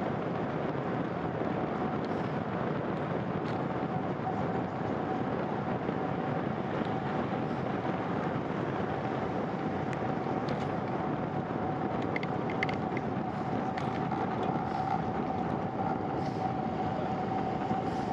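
Steady rush of wind and tyre noise from a bicycle being ridden on a wet road, with a steady whine running under it and a few faint ticks in the second half.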